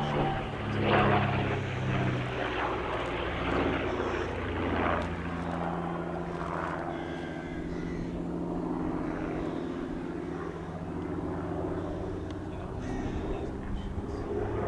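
Twin de Havilland Gipsy Six piston engines of a de Havilland DH.88 Comet racer droning as it flies past, a steady hum of several tones whose pitch shifts slightly partway through.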